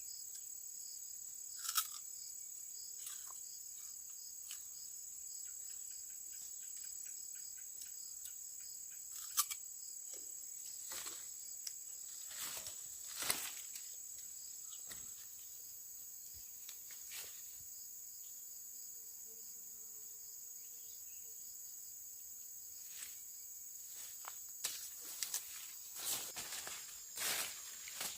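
Steady high insect chorus, a continuous shrill buzz. Scattered light clicks and knocks come through it, several in quick succession near the end.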